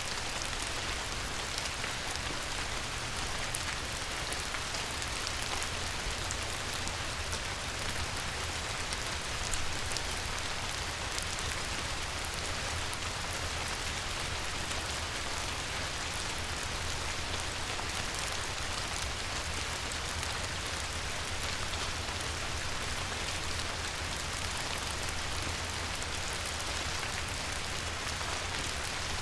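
Light rain falling on a river: a steady hiss of drops with a fine, even patter.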